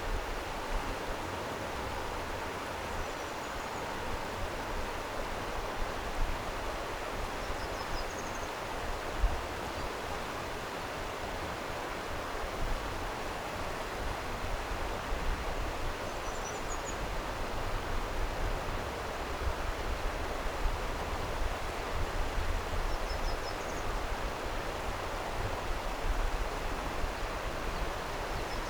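Flowing stream water, a steady rush, with a few faint, short, high chirps over it.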